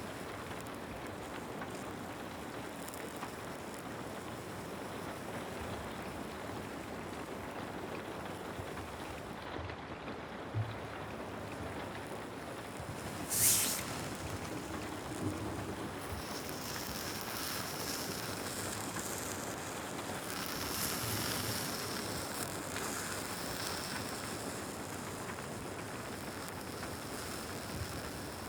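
Steady rain falling, an even hiss throughout, with a soft knock about ten seconds in and a short sharp hiss a few seconds after it.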